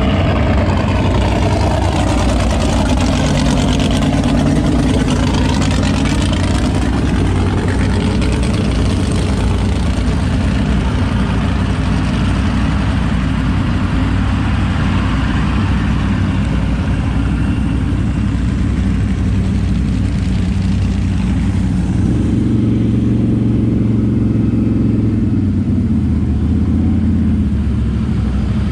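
Big mud truck engine running loud and steady under load, with the sound sweeping as the truck moves close by. About three-quarters of the way through the tone changes: the lower engine note comes forward and the higher noise falls away.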